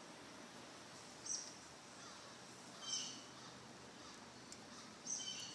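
A bird chirping: short high calls repeated three times, roughly every one and a half to two seconds, over a faint steady background hiss.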